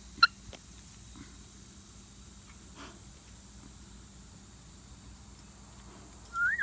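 African grey parrot giving one short, sharp, loud chirp about a quarter second in, then a brief whistle that rises and falls in pitch near the end.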